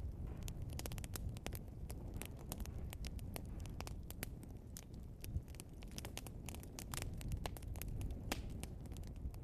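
Wood fire burning, logs crackling and popping in many quick irregular snaps over a steady low rumble of the flames.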